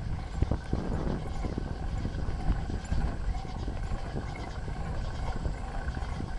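Bicycle being ridden on a trail, picked up by a handlebar-mounted camera: a steady low rumble from the tyres and riding, with irregular knocks and rattles from the bike over bumps.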